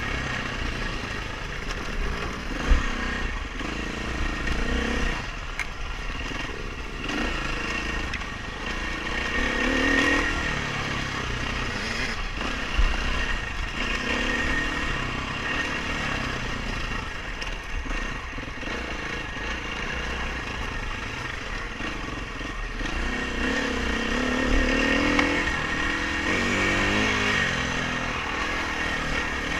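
Dirt bike engine revving up and falling back repeatedly as it is ridden hard off-road, with a low rumble underneath and a couple of sharp knocks.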